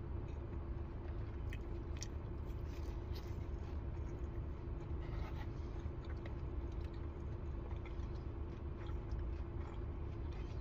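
Close-miked chewing and biting of food, with scattered short crisp crunches and mouth clicks over a steady low hum.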